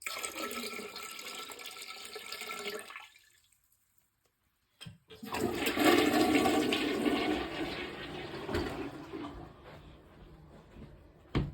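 Dirty water drained from a washing machine pouring and splashing in two spells: about three seconds, then again from about five seconds in, trailing off. A sharp knock near the end.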